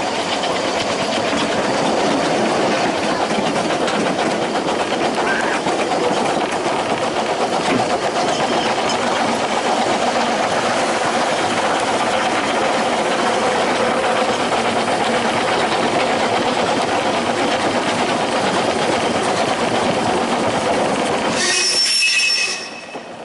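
Running noise of a Ffestiniog Railway narrow-gauge train: a steady rumble and rattle of wheels on the track. It cuts off suddenly near the end.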